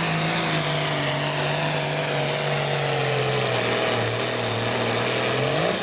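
Pulling tractor's engine running hard, its pitch slowly sagging as it lugs down under load, then revving up sharply just before the end.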